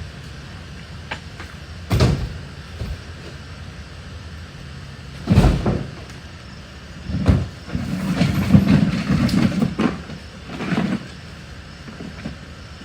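Debris being thrown and dropped into a truck: loud knocks and bangs a few seconds apart, with a longer rattling clatter about eight seconds in, over a low steady hum.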